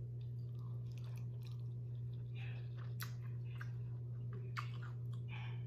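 Close-miked mouth sounds of a person chewing food, a string of short wet clicks and crunches, over a steady low hum.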